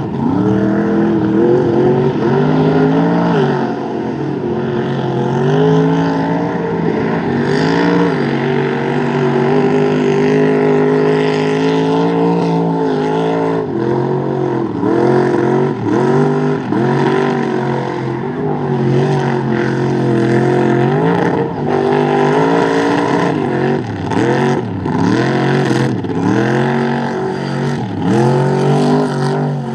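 Rear-engine Dodge mud truck's engine revving hard under load while bogging. Its pitch is held high for a few seconds, then rises and falls over and over as the throttle is worked.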